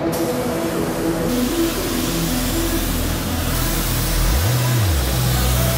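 Car engine blipped once, its pitch rising and falling, then settling into a steady idle, over a rising hiss of noise.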